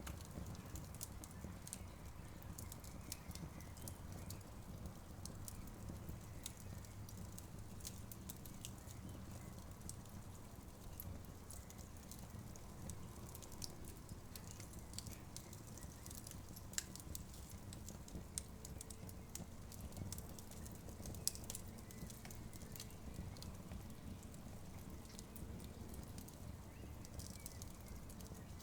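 Campfire crackling: a steady low rumble of burning wood with frequent small sharp crackles and a couple of louder pops a little past the middle.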